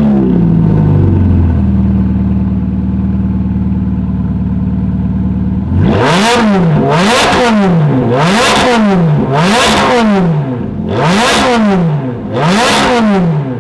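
Ferrari F430's V8 running through an S-Line exhaust with a newly fitted X-pipe. The revs drop from the start-up flare and settle into a steady idle, then about six seconds in come six sharp throttle blips, each rising and falling quickly.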